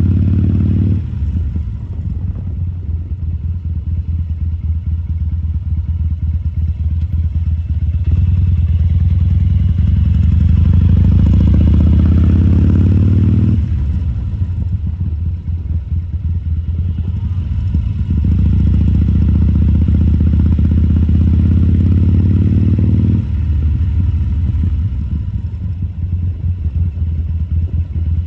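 2014 Harley-Davidson Sportster 1200 Custom's air-cooled 1200 cc V-twin running at low speed with a pulsing beat. Twice it is throttled up, about eight and about eighteen seconds in, rising in pitch and level for several seconds before dropping back sharply off the throttle.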